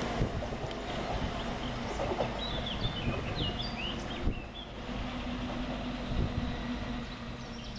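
Class 321 electric multiple-unit train running through the station with a steady electric hum and scattered wheel knocks, quieter than its passage just before. Birds chirp briefly a few seconds in.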